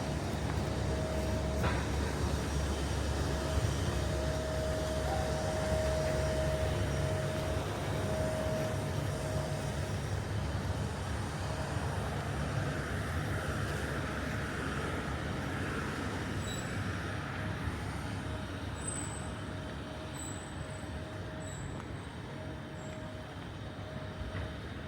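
Steady rumble and running noise of a moving vehicle, heavy in the low end for the first several seconds and then easing, with a steady tone that comes and goes. The overall level slowly falls toward the end.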